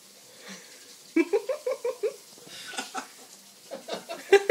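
African grey parrot imitating laughter: a quick run of short ha-ha-ha notes about a second in, then more bursts of laughter toward the end.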